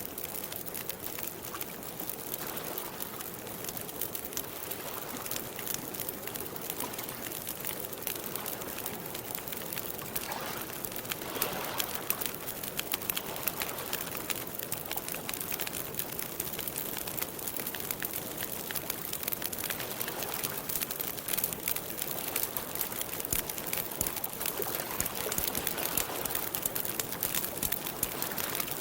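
Campfire crackling with many small sharp pops over a soft hiss, and water lapping gently in slow soft swells.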